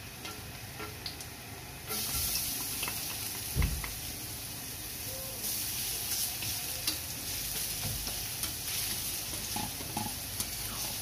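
Minced garlic hitting hot oil in a stainless steel wok: a sudden loud sizzle starts about two seconds in and goes on steadily, over the quieter sizzle of ginger and onion already frying. A spatula stirs and scrapes the pan throughout, with one dull knock shortly after the garlic goes in.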